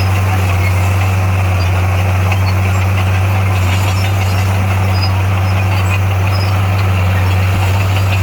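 Heavy diesel engine of earthmoving equipment running at a steady speed, a constant low hum with no changes.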